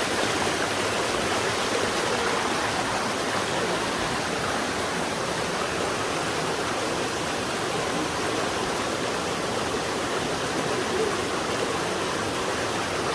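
Steady rush of water from a waterfall and the stream around it.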